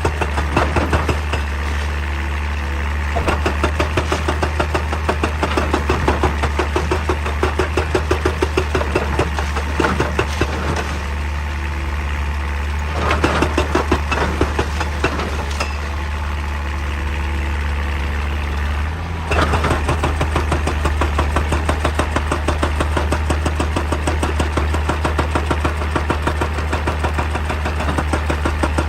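Excavator's hydraulic rock breaker hammering stone in rapid, even blows, about four or five a second, over the steady running of the diesel engine. The hammering pauses briefly about two thirds of the way through, then resumes.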